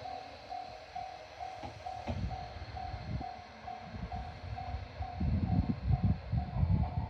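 Level-crossing warning bell ringing steadily, a little over two strokes a second, over the low rumble of a train on the Tobu Isesaki Line. The rumble grows louder from about five seconds in as the train comes closer.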